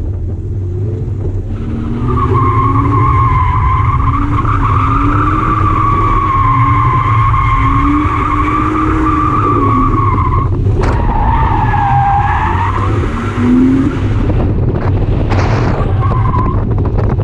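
Drift car's tyres squealing in one long wavering skid lasting about nine seconds, over a steady engine note, as the car slides through drift donuts and figure eights. A shorter squeal follows, then a brief one near the end.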